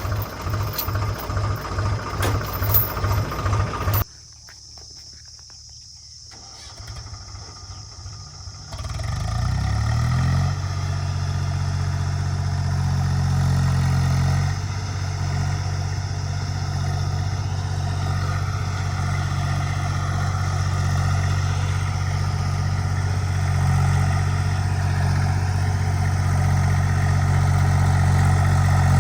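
Tractor diesel engine chugging with an even pulse, cut off abruptly about four seconds in. About nine seconds in an engine spins up with a rising pitch and settles into a steady run.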